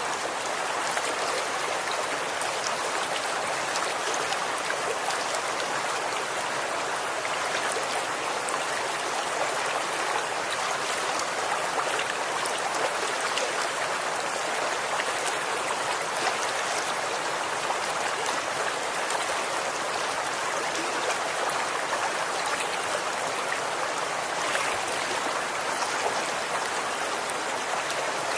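Running water from a stream or creek: a steady, even rush with fine splashing and trickling throughout.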